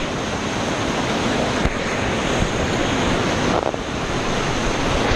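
Steady rush of a rain-swollen waterfall and its runoff pouring close by, with wind buffeting the microphone.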